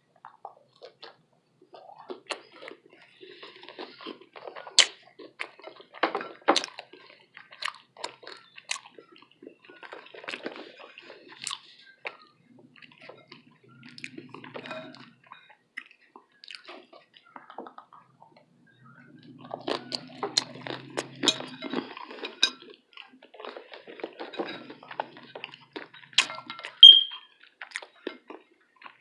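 Close-miked chewing and crunching of breakfast food, with irregular crisp crackles and wet mouth sounds. A short bright clink comes near the end.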